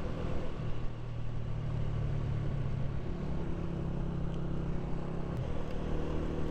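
Honda CG 125's single-cylinder four-stroke engine running as the motorcycle is ridden, its note changing pitch in steps a few times.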